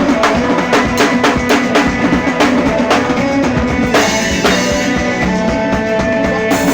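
Drum kit played in a fast, tight groove, with dense bass drum and snare strokes over other held musical tones, in a rough-sounding recording.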